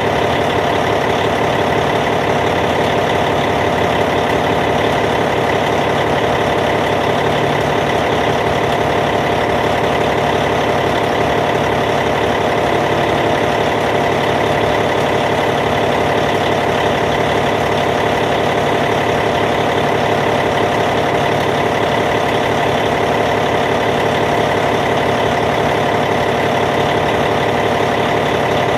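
Caterpillar C15 six-cylinder diesel engine of a Cat D8T bulldozer idling steadily.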